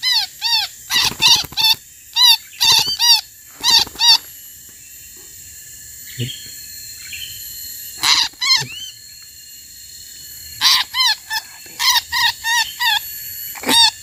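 Distress calls of a small bird caught on a birdlime stick: short high squeaky calls in quick runs of two or three, coming in three spells with pauses between.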